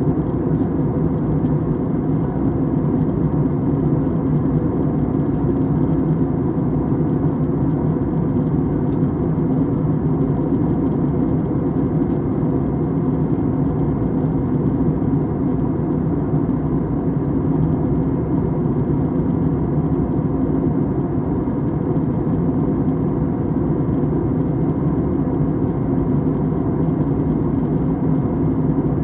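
Steady cabin drone of an Airbus A321neo airliner in flight: engine and airflow noise heard from inside the passenger cabin, unchanging throughout.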